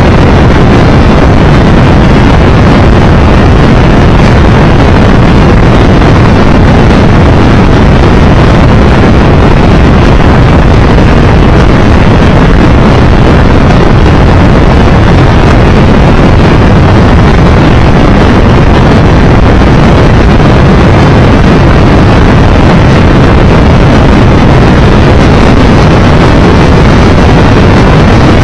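Triumph Tiger Explorer 1200 motorcycle riding at road speed: loud, steady wind rush on the microphone over the bike's engine.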